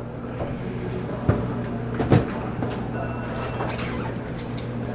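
Two short knocks, about a second apart, with a few faint clicks after them, over a steady low hum.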